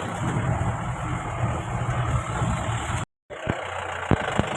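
Mahindra Bolero off-roader running on a rough hill track: a steady engine and road noise. The sound cuts out for a moment about three seconds in, and a few sharp knocks follow near the end.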